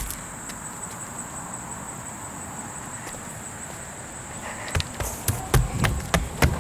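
Footsteps on a woodland path, setting in about five seconds in as a quick run of uneven steps after a quiet stretch with a faint steady high hiss.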